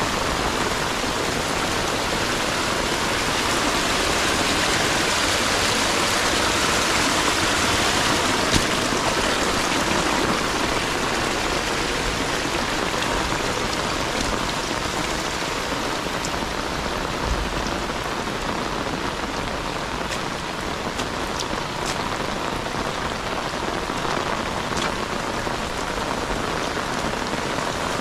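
Heavy rain falling steadily, with a few sharper close drop ticks in the second half.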